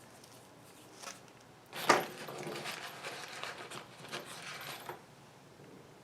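A sharp click, then about three seconds of small metal hardware clinking and rattling as it is handled.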